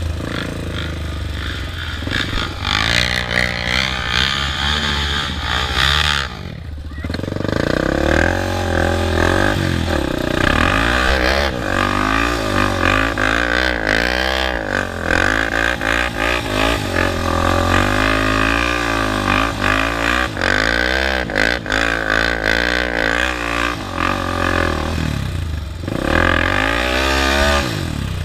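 Honda TRX400EX quads' single-cylinder four-stroke engines revving up and down over and over while spinning doughnuts. The engine noise drops off briefly about six seconds in, then picks up again.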